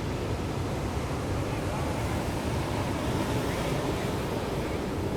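Ocean surf washing onto a beach: a steady, continuous rush of waves with a deep low rumble.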